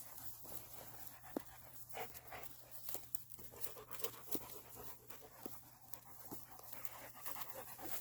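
A dog panting close by, with scattered faint clicks and rustles.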